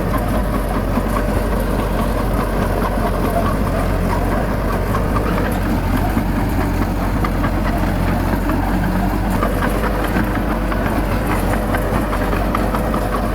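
Diesel engine of heavy earthmoving machinery running steadily, with continual light rattling over it.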